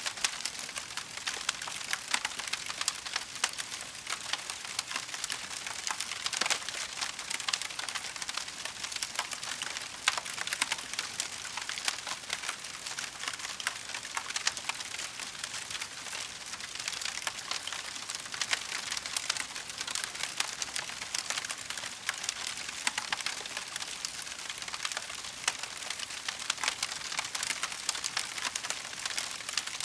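Wood fire burning in a fireplace, crackling steadily with dense, irregular small pops over a soft hiss.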